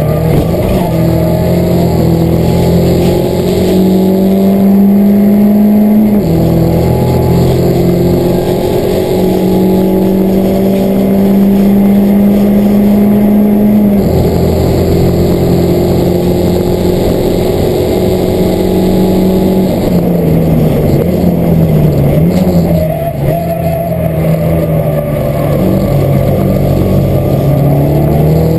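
Peugeot 207 race car's engine heard from inside the cockpit at racing speed. It climbs in pitch, with gear changes dropping the revs about six and fourteen seconds in, then holds steady. Around twenty seconds in the revs fall and waver, and near the end they climb again.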